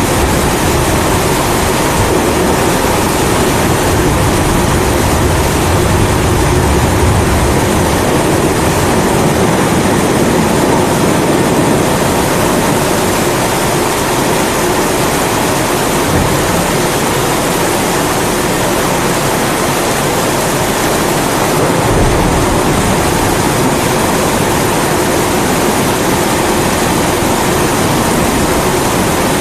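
Pressurized kerosene primus stove burning with a steady rushing hiss, layered with constant rain. Low rumbles of thunder swell a few seconds in and again in the last third.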